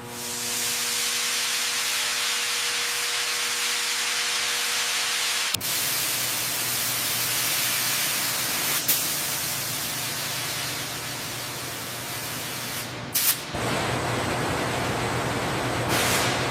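Steady hissing noise that changes abruptly a little over five seconds in and again about thirteen seconds in, with a brief burst just before the second change.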